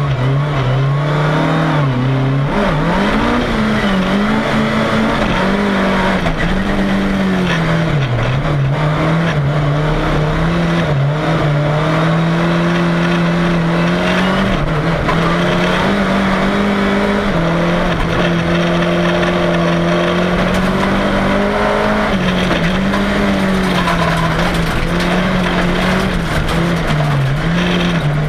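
Volvo 340 race car's four-cylinder engine heard from inside the cabin, revving hard and continuously, its pitch climbing and dropping again every few seconds as the driver lifts off and accelerates, over steady road and tyre noise.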